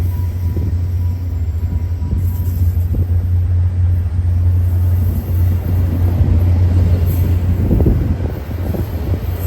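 Diesel locomotive running steadily, a constant deep rumble.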